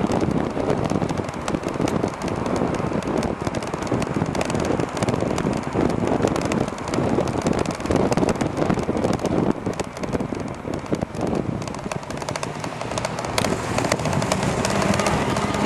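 Wind buffeting the microphone and road noise from a moving e-bike, rough and gusty. Near the end a faint hum rises slowly in pitch, in line with the front hub motor speeding up.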